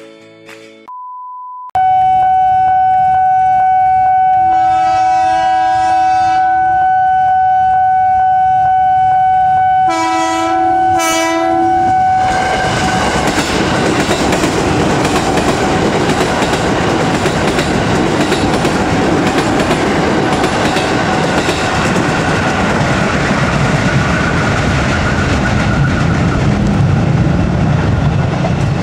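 An electric commuter train's horn sounds two chord-like blasts over a loud, steady high tone that holds for about ten seconds. Then a KRL electric commuter train runs close by, its wheels rumbling and clattering over the rail joints.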